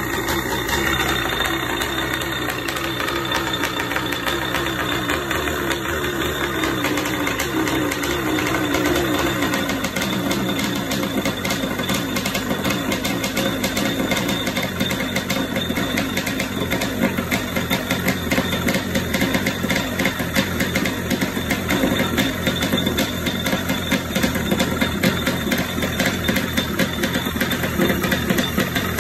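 Kawasaki 650 X2's 650cc two-stroke twin engine running on test, a rapid steady firing buzz whose loudness grows choppier in the second half.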